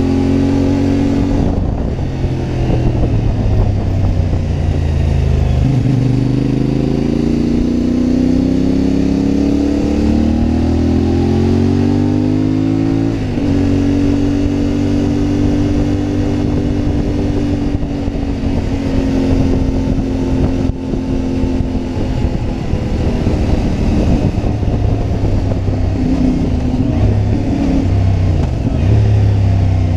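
CFMoto 450MT motorcycle's parallel-twin engine under way: revs fall for a few seconds, then climb again, with an abrupt shift in engine pitch about halfway through as the rider changes gear. The engine then holds a steady pitch before the revs dip and rise again near the end.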